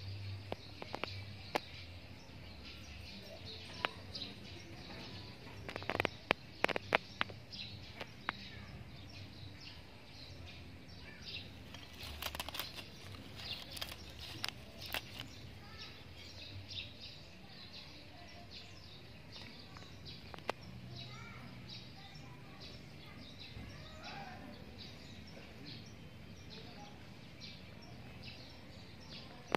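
Small birds chirping, many short repeated calls, over faint outdoor background noise, with a few scattered sharp clicks in the first half.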